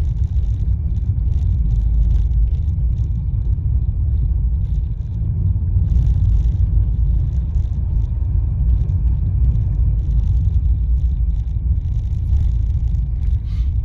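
Car driving in light rain, heard from inside the cabin: a steady low rumble of engine and tyres, with faint scattered ticks on top.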